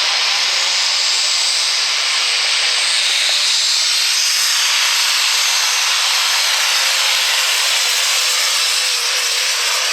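Super stock diesel 4x4 pulling truck running at full throttle down the track, a loud, steady roar with a faint high whine rising early on.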